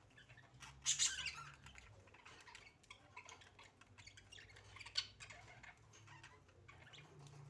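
Pet budgerigars chattering and squawking in short scattered calls, with a louder burst about a second in and a single sharp click about five seconds in.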